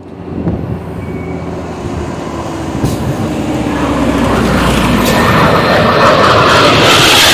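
F-5 Tiger III fighter's twin turbojet engines, a steady rumble growing louder as the jet approaches, with the hiss rising higher toward the end.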